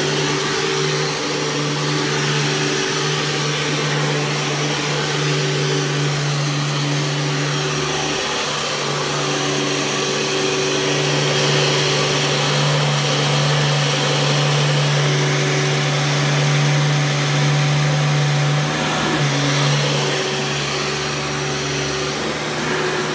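Hoover Caddy Vac vacuum cleaner running on short-pile carpet: a really loud, steady motor hum and airflow hiss. Its pitch shifts slightly twice, about a third of the way in and again near the end.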